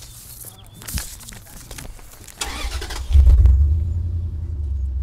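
A car engine being started: a short burst of cranking about two and a half seconds in, then it catches with a loud surge and settles into a steady idle. A few sharp clicks come before it.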